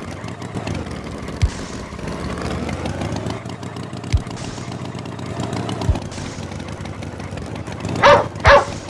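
A dog barks twice in quick succession near the end, loud and short, over a steady background with a few soft low thumps.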